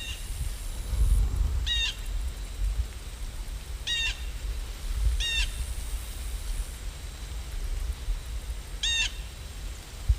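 A bird calls four times, each a short, harsh, stacked call, over a steady low rumble of rain ambience.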